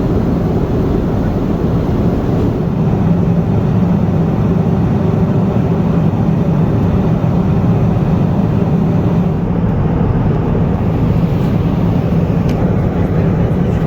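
Steady in-flight cabin noise of a Boeing 777-200ER: a constant drone of engines and airflow with a low hum.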